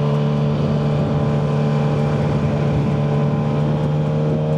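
Kawasaki ZX-6R 636 inline-four motorcycle engine running through a Yoshimura full exhaust, holding a steady pitch with no revving.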